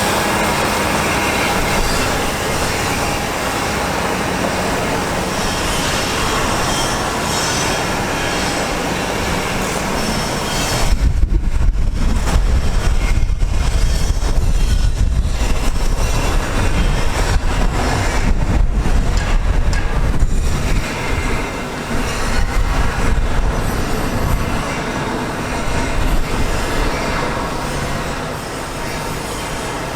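Mack GU713 water truck with its Mack MP7-395 diesel running, under a steady loud rushing hiss. About eleven seconds in the low rumble grows much stronger while the hiss drops away in short gaps, then settles again.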